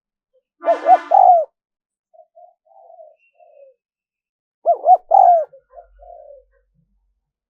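Spotted dove cooing: two loud three-note phrases, two short notes then a longer one, about four seconds apart, with softer coos between them.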